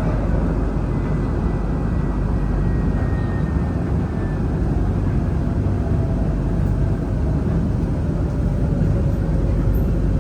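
Dubai Tram running: a steady rumble and hiss, with a faint motor whine that slowly falls in pitch through the second half.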